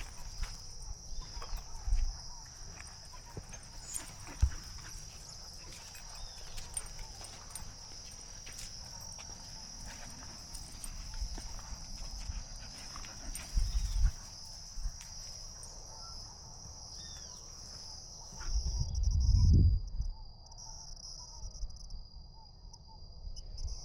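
Insects singing in a steady, high-pitched outdoor chorus, with occasional low thumps and a longer low rumble about twenty seconds in.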